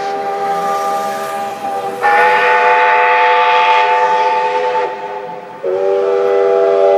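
Steam locomotive whistle blowing a chord of several steady tones in three long blasts, the second and third louder than the first.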